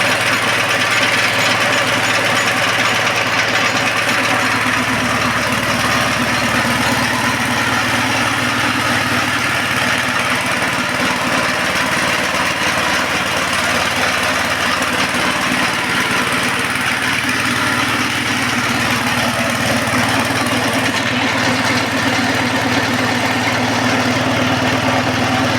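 Tsuzumi TX 200 small petrol engine running steadily under throttle, driving a 5 HP air compressor that is building up tank pressure.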